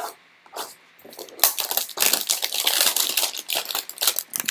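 Crinkling and crushing of a trading-card hanger box's packaging being torn open and handled, a dense run of crackling rustle starting about a second and a half in.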